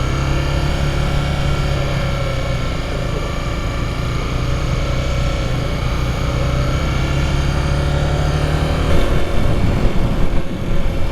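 Triumph Daytona sport motorcycle engine running at a steady cruise, heard from the rider's position with wind rush over the microphone. About nine seconds in, the steady engine note fades out, leaving a rougher rumble.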